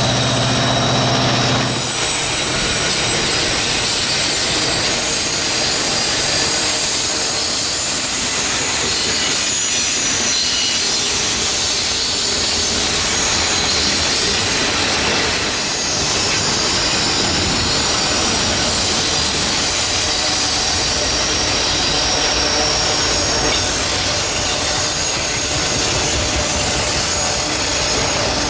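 CPKC double-stack intermodal freight cars rolling past close by on a curve: a steady rumble and clatter of wheels on rail with high wheel squeal. A diesel locomotive's engine drone is heard for about the first two seconds.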